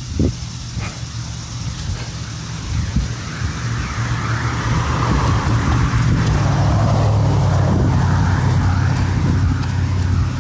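A motor vehicle passing close by: engine hum and tyre noise grow louder from about four seconds in, peak near the end, then begin to fade.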